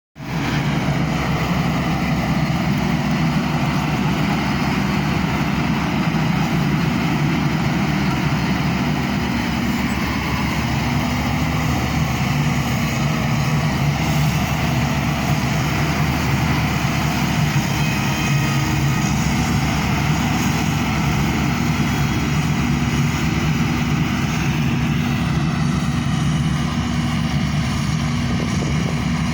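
Road vehicle driving steadily on an asphalt highway: a constant low engine drone with road noise, holding an even speed throughout.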